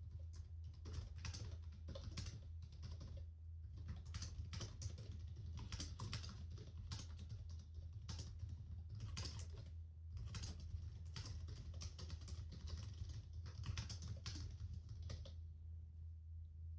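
Typing on a computer keyboard: quick runs of key clicks with brief pauses, stopping a little before the end, over a steady low hum.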